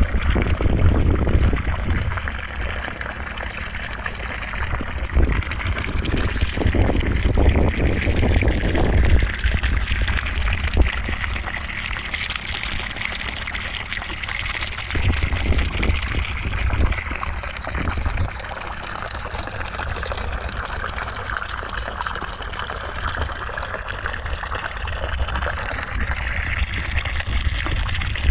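Continuous rushing white noise with a bright hiss on top and a deep rumble underneath that swells and eases every few seconds.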